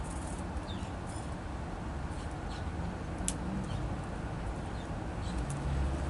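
Small songbirds at a seed feeder: scattered short, high chirps and sharp ticks, one sharper click about halfway through, over a steady low background rumble.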